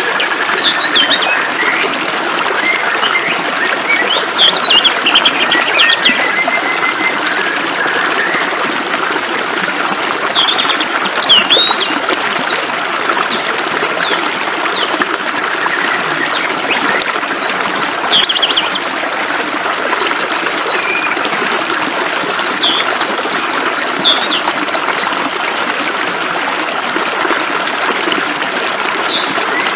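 Flowing water hissing steadily, with songbirds calling over it in short chirps and two longer trills past the middle.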